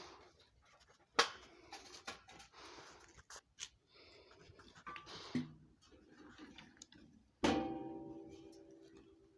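Scattered knocks and scraping of metal being handled, then about three-quarters of the way through a sharp clang that rings on in a few clear tones, fading over about two seconds.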